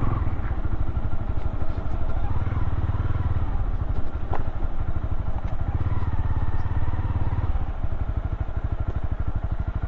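Motorcycle engine dropping to low revs right at the start, its individual firing pulses clearly audible. The throttle is opened twice for a couple of seconds each, and a single sharp click sounds about four seconds in.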